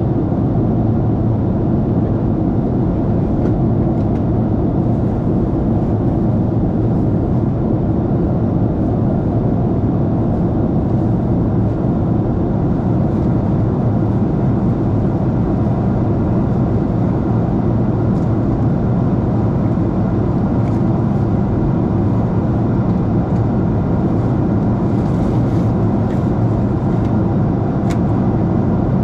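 Steady low rumble of cabin noise inside a Boeing 747-8 airliner, from its engines and the airflow around the fuselage, holding an even level throughout.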